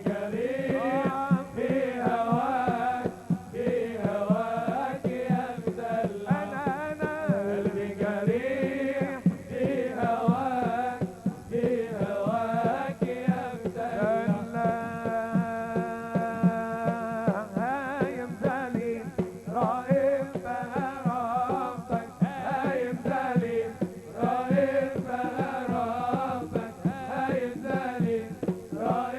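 Live Middle Eastern wedding band playing an instrumental passage: a winding, ornamented melody over a quick drum beat, with one long held note about halfway through.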